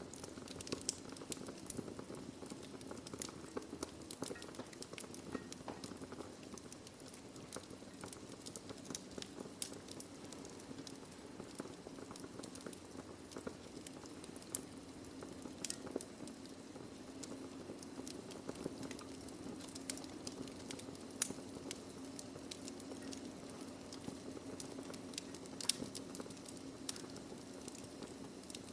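Wood fire burning in a fireplace: a steady low rush with frequent irregular crackles and sharp pops from the burning logs.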